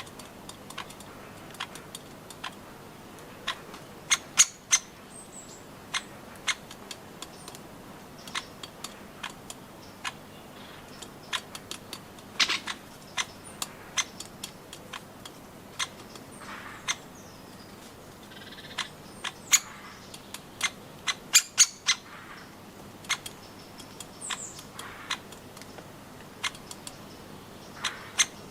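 Birds pecking and tapping at nuts on a feeder: irregular sharp taps and clicks, some in quick runs, with a few short high bird calls.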